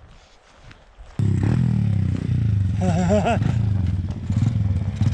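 Enduro motorcycle engine coming on abruptly about a second in and running steadily, its revs wavering up and down briefly about two seconds in.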